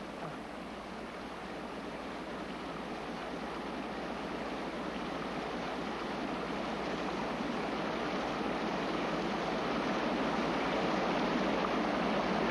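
Steady rushing of sea surf and water, slowly growing louder.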